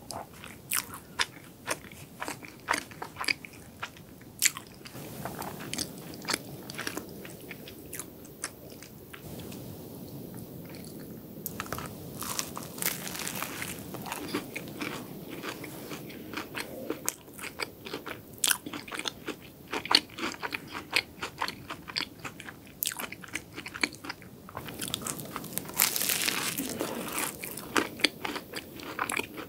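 Close-miked eating of a chocolate cookie choux: many quick, crisp crunches from its cookie crust between stretches of chewing.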